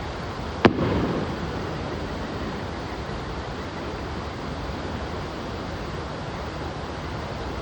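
A firework shell bursting with one sharp bang a little under a second in, followed by a brief rumbling tail, over a steady background hiss.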